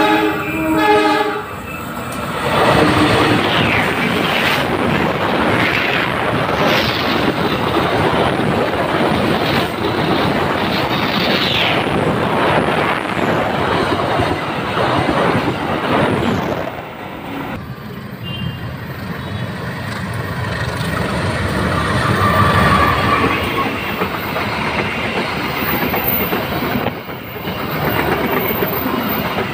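A train horn sounds in the first second or so, then a train passes close by with loud wheel clatter on the rails and a few high squeals. The noise drops back after about 17 seconds but goes on as the train continues.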